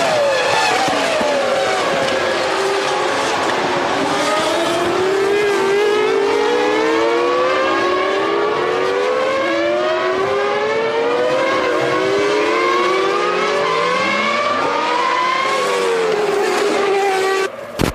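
1999 Formula One V10 engines accelerating at high revs, the pitch climbing through each gear and dropping back at every upshift. The sound cuts off abruptly near the end with two sharp clicks.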